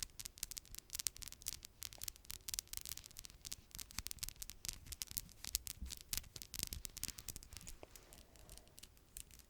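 Long, freshly manicured fingernails tapping and scratching in quick, irregular clicks, thinning out near the end.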